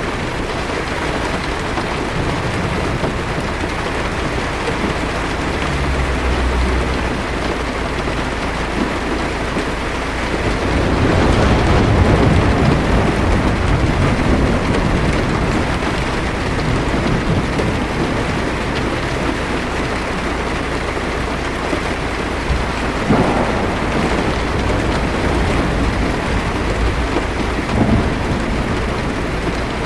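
Heavy rain falling steadily on a car's windshield and roof. A low rumble of thunder swells about ten seconds in, and two short, sharper thunder cracks come later.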